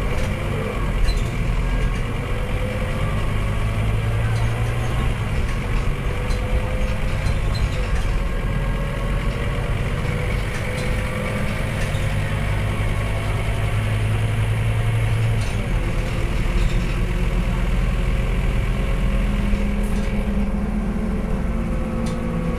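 Scania K230UB single-deck bus engine running steadily as the bus drives, with a deep drone whose note shifts about fifteen seconds in. A fainter whine slowly glides in pitch over it.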